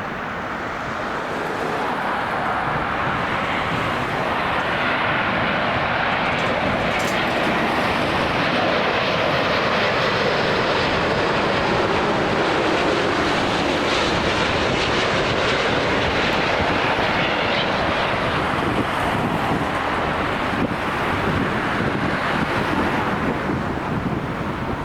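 Jet airliner passing, its engine noise building over the first couple of seconds, holding strong through the middle and easing slightly toward the end.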